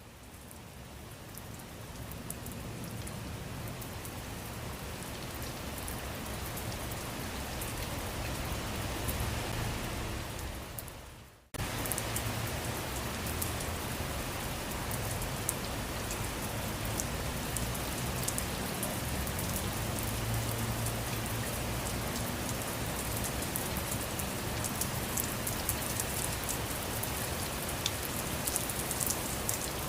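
Steady rain falling on a surface, with many separate drops crackling over a continuous hiss. The sound fades up at first, fades away about eleven seconds in, then cuts straight back in at full level.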